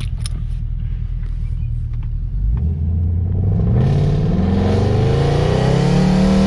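Supercar engine heard from inside the cabin: a low steady drone, then about two and a half seconds in the car accelerates hard and the engine note climbs steadily for about four seconds, dropping suddenly at the very end as the gear changes.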